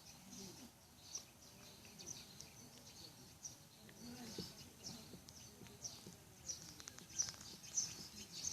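Quiet outdoor ambience: small birds chirping in short, high, scattered calls that come thicker near the end, with faint distant voices.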